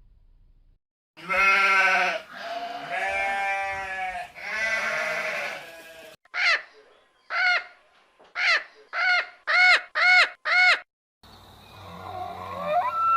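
Bleating livestock: three long, wavering bleats, then a run of eight short, quick bleats. A different sound with a rising pitch begins near the end.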